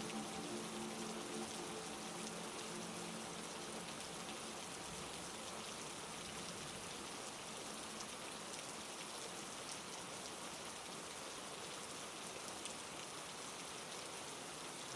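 Heavy rain falling steadily: an even hiss with scattered individual drop ticks. A low sustained musical tone fades out in the first two seconds.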